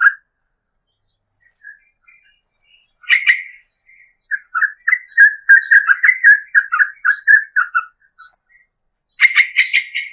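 Yellow-vented bulbul (trucukan) singing: a short burst of notes about three seconds in, then a long run of quick repeated notes lasting several seconds, and another short burst near the end.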